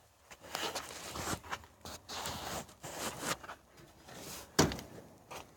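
Irregular scuffing and rustling, with one sharp knock about four and a half seconds in.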